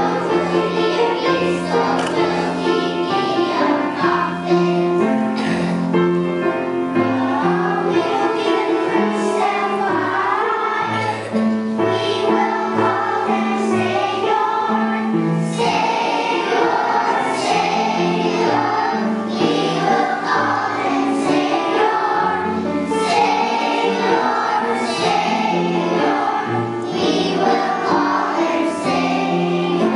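Children singing a Christmas song together with musical accompaniment.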